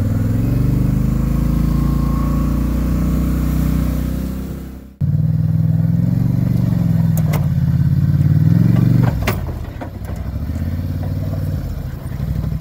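Vehicle engine running and changing speed, its note rising and falling, with a sudden break about five seconds in and a couple of sharp clicks later on.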